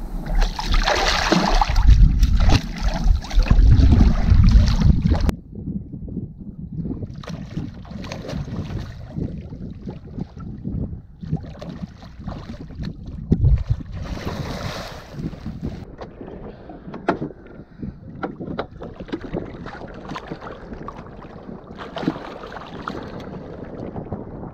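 Wind buffeting the microphone for about five seconds, cutting off sharply. Then water splashing and lapping beside the boat as a hooked tarpon rolls and thrashes at the surface, with one loud splash about thirteen seconds in.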